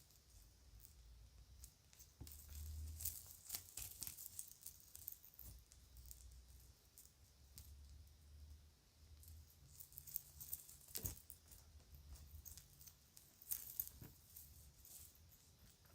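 Faint crinkling of a plastic bag and light clicking of small plastic kids' jewelry being handled, with one sharper click about two-thirds of the way through.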